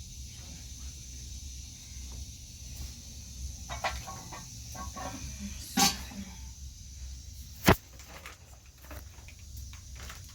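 A few scattered knocks and clicks over a low steady rumble, the loudest a sharp crack about three quarters of the way through.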